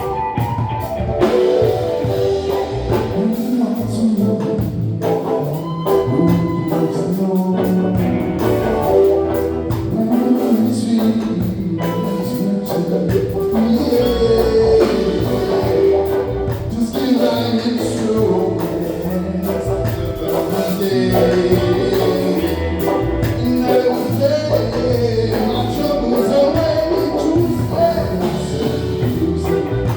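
Live band playing a long instrumental stretch, with guitar, keyboards, bass and a drum kit keeping a steady beat.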